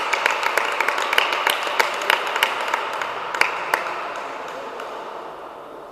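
Spectators applauding a point in a table tennis match: a small crowd's scattered clapping that fades out about four seconds in.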